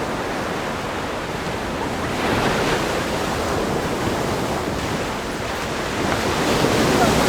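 Ocean surf breaking on a rock groin and washing up a sandy beach: a continuous wash that swells louder as a wave breaks about two seconds in and again near the end.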